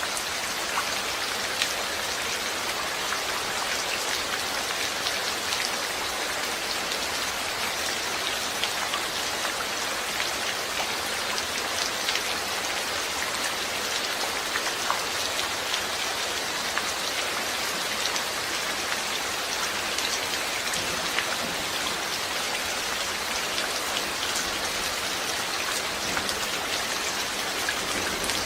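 Steady rain falling, an even hiss with many sharp individual drops pattering on a surface.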